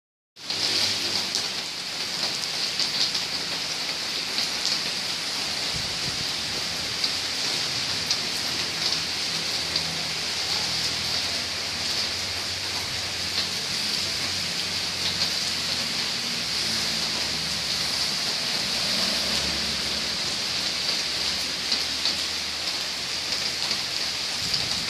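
Rain falling steadily on a wet paved street: an even hiss with scattered louder drop hits.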